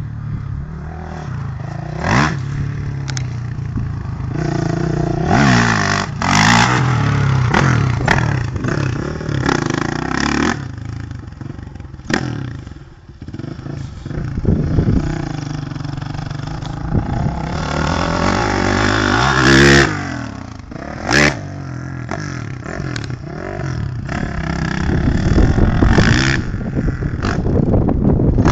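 Honda CRF450 motocross bike's four-stroke single-cylinder engine, revving up and falling back again and again as it is ridden round the track, with a few sharp loud cracks mixed in.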